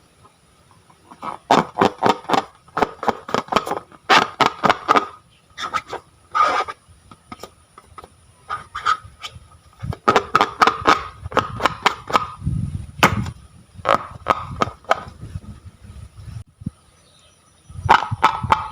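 Slime being squeezed and kneaded by hand, giving runs of rapid wet clicks and pops as air pockets burst.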